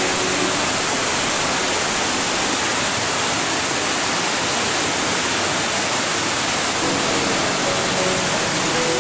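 Steady loud rushing of a large cascading waterfall, Yudaki falls pouring down its rock wall, with faint background music notes coming in near the end.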